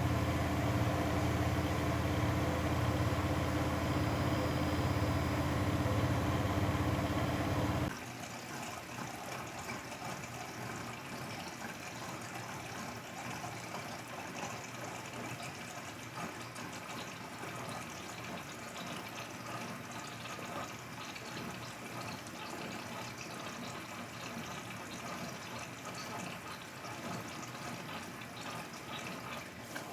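Grundig washing machine in its 1000 rpm spin, a loud steady hum that cuts off suddenly about eight seconds in. After that only a quieter steady rushing noise with water in it remains.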